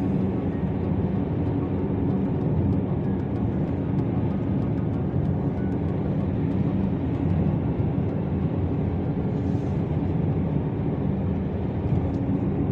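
Strong gusty wind buffeting the microphone, a steady deep rumble.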